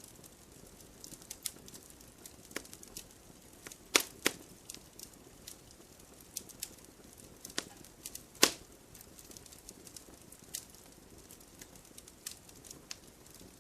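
Wood burning in a fireplace, crackling: irregular small snaps over a soft hiss. The loudest pops come about four seconds in, with another just after, and again at about eight and a half seconds.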